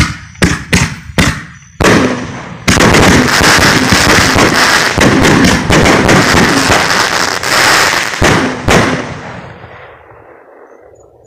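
Consumer fireworks going off: a quick string of sharp bangs about half a second apart, then about five seconds of dense, continuous crackling, two more loud bangs, and crackling that fades away.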